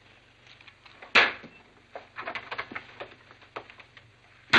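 Knocks and clicks of a door and footsteps: one loud knock about a second in, a quick run of lighter clicks around two seconds in, and another knock near the end.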